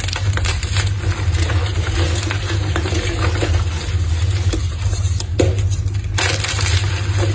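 Blocks of gym chalk being crushed and crumbled, with a dense run of small crunches and crackles and a few louder crunches, over a steady low hum.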